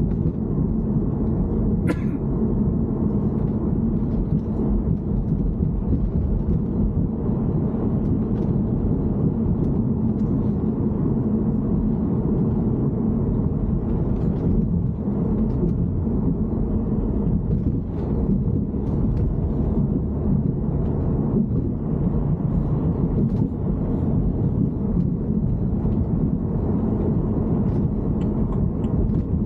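BMW E90 car running: a steady low rumble, with faint scattered ticks above it.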